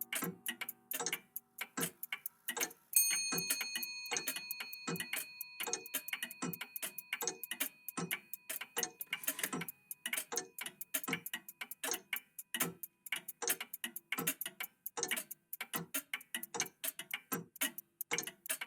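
Several old clocks, among them a cuckoo clock, ticking out of step, several ticks a second. About three seconds in a chime strikes once and rings on, fading over roughly ten seconds.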